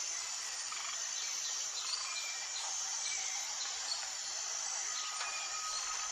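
Tropical forest ambience: a steady high-pitched hum of insects with scattered short bird chirps. About five seconds in, a thin steady tone joins.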